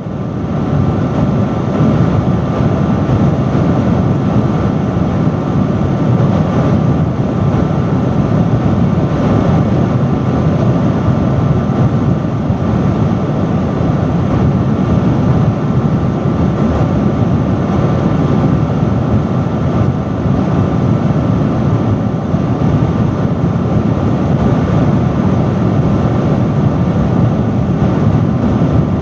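Industrial fan running steadily: a loud, even rush of air with a low hum and a faint steady whine on top, fading in at the start.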